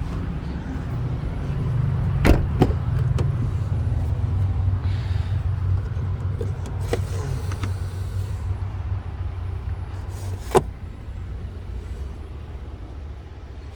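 A 2018 Volvo XC90 T6 running at idle with a low steady rumble. A few sharp clicks and knocks come about two seconds in, again around seven seconds, and a louder one near ten and a half seconds.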